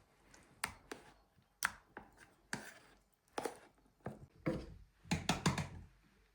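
About a dozen irregular, sharp knocks on wooden stair boards, with a quick run of four strikes near the end: work to take out a rotted stair board.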